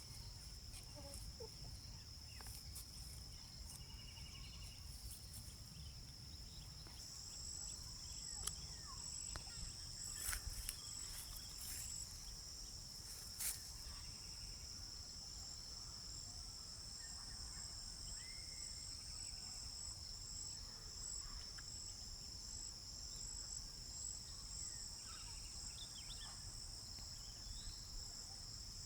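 Insects trilling steadily in a high, even pitch, with a second, higher pulsing trill joining about seven seconds in. A few brief clicks sound around the middle, over a low rumble.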